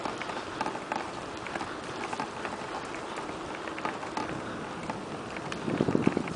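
Riding noise from a bicycle on a paved path: a steady rush of wind and tyres with frequent light clicks and rattles, and a louder low bump near the end.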